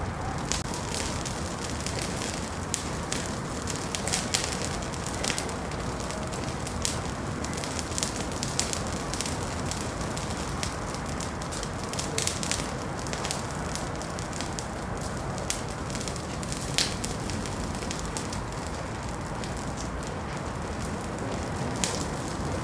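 Wood fire burning in a fireplace: a steady low hiss and rumble with frequent irregular pops and crackles.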